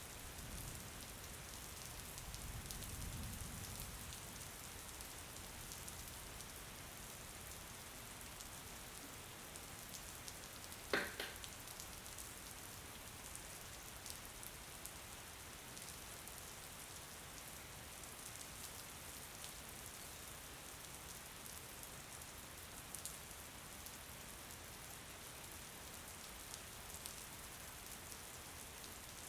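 Steady rain falling, with many fine droplet ticks. A low rumble swells and fades in the first few seconds, and a single short, sharp tap stands out about eleven seconds in.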